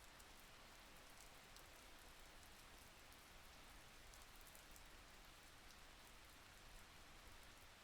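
Faint, steady rain falling, with the light tick of individual drops.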